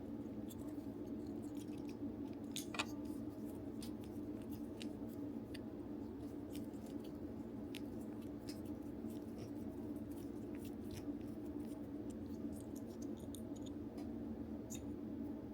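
Small clicks and scrapes of hard plastic toy parts being handled and worked apart while disassembling a DX Buggle Driver II toy belt, with one sharper click about three seconds in. A steady low hum runs underneath.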